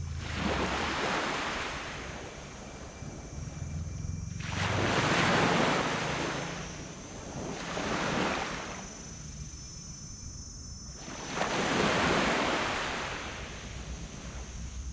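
Small waves breaking and washing up on a sand beach, three swells of surf at intervals of about six seconds, with wind on the microphone.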